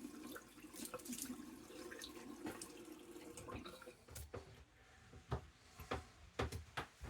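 Tap water running into a bathroom sink, with splashing, that stops about four seconds in. Several short knocks and clicks follow, as of objects set down on the sink.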